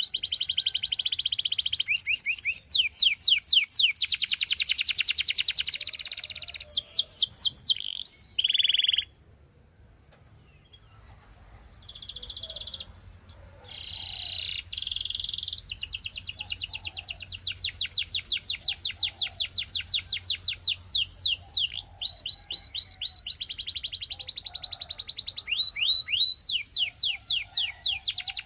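Canary singing in long, fast trills of repeated sweeping chirps, with a pause of about two seconds some nine seconds in before the song resumes with shorter phrases and then more rolling trills.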